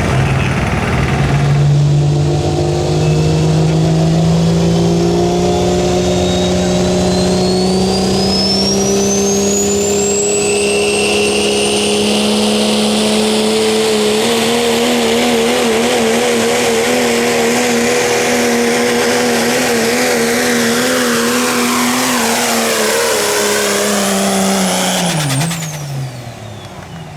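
Turbocharged diesel pickup pulling a sled at full throttle: engine revs climb and hold high while the turbo whistle rises steadily in pitch. Partway through the engine note wobbles rapidly, and near the end the throttle is cut and engine and turbo wind down.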